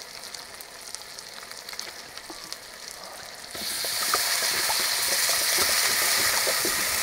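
Food frying in hot oil in a cooking pot: a quiet crackle at first, then about halfway through a sudden, much louder steady sizzle.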